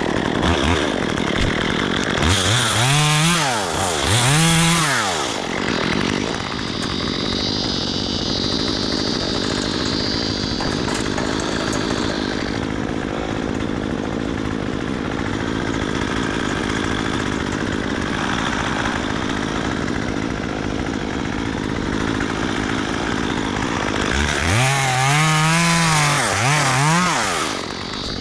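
Gas chainsaw revved up and down twice, then running steadily for a long stretch, then revved several times again near the end.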